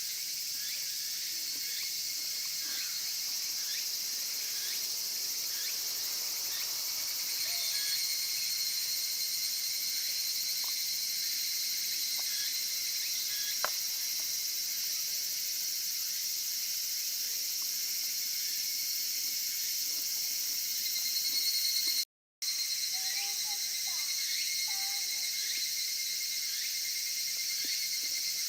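A steady chorus of insects trilling, high-pitched and continuous, with a few faint short chirps lower down. The sound cuts out briefly about 22 seconds in.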